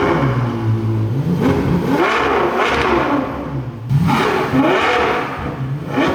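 Ferrari GTC4Lusso's V12 revved repeatedly through a newly fitted Ryft exhaust with new mufflers and an X-pipe. It blips about three times, each rev rising sharply in pitch and dropping back to idle.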